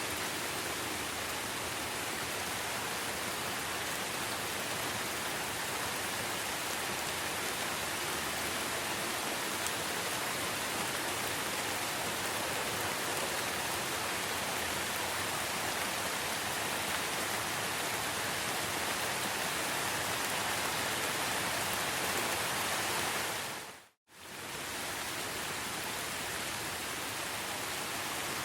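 Steady rain falling, an even hiss with no single drops standing out. About 24 seconds in it fades out to silence for a moment and then fades back in.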